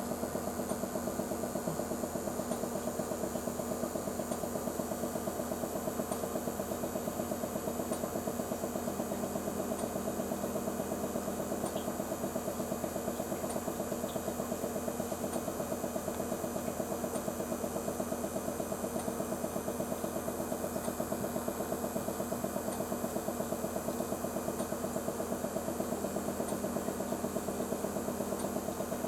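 Steady mechanical hum of a running motor, with a fast even pulse and faint high ticks about once a second.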